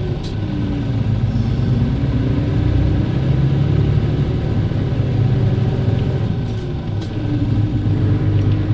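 Diesel engine of a PKG-AA274KAN city bus running as the bus drives along, its pitch dropping and climbing again twice as it changes gear, with a couple of sharp clicks.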